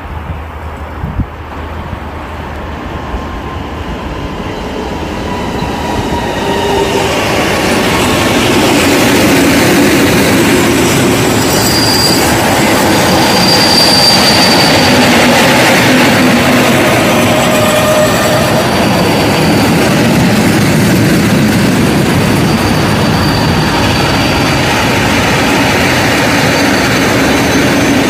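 Freight train behind a DB Class 187 electric locomotive approaching and passing close by. It grows louder over about seven seconds, then the long string of tank and car-carrier wagons rolls past with a steady rumble, with brief high wheel squeals about twelve and fourteen seconds in.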